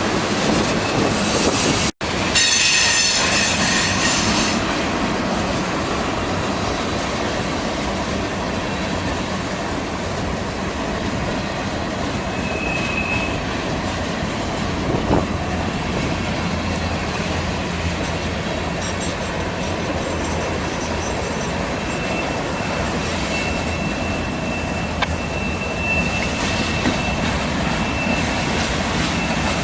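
BNSF freight train's cars rolling past at steady speed with a continuous rumble and clatter of wheels on rail. A thin, high wheel squeal rings briefly near the middle, then again through the last several seconds.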